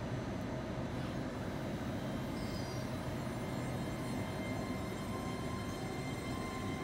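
Great Western Railway Class 800 IET train, two units coupled, running slowly along the platform: a steady low rumble, with a faint high whine growing from about halfway through.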